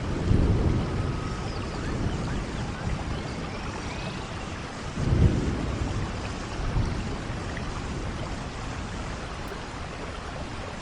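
Steady rain, with two low rumbles: one at the start and a louder one about five seconds in.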